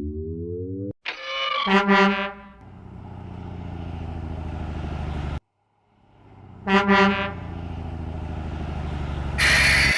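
Truck horn honking twice, about five seconds apart, each followed by a truck engine running steadily. A short rising tone opens the sequence, and a burst of hiss comes near the end.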